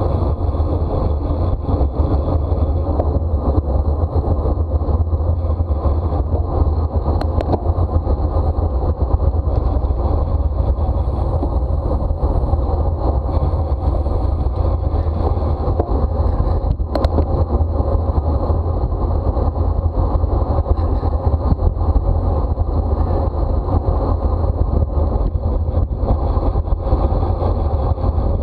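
Steady wind rush and rumble on the microphone of a camera riding on a racing bicycle at speed, with two brief clicks partway through.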